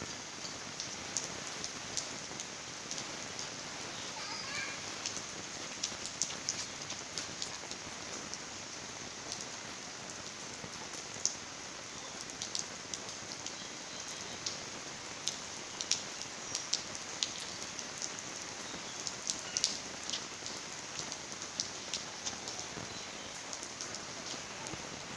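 Steady rain falling, with many sharp drops and splashes ticking through it.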